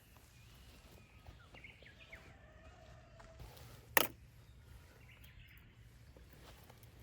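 Small birds chirping faintly over a quiet outdoor background, with one sharp click about four seconds in.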